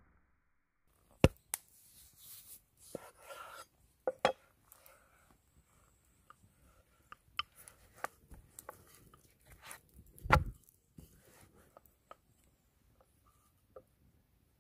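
Irregular knocks and taps of food preparation on a cutting board, scattered small ticks between a few sharp louder knocks, the deepest about ten seconds in.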